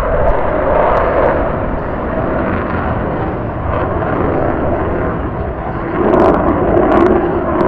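Loud jet noise from the F-35A Lightning II's single F135 turbofan engine, a dense rumbling roar that swells about six seconds in, with a few sharp crackles.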